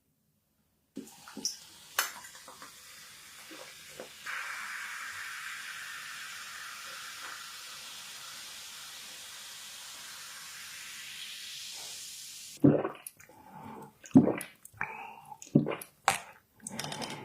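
Kitchen work: a few clicks, then a steady hiss for about eight seconds, then a quick run of sharp knocks and clatters near the end.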